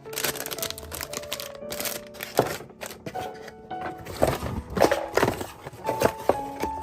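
Hands packing orders: rustling and crinkling of packaging with many sharp taps and clicks, busiest through the middle, over soft background music with held notes.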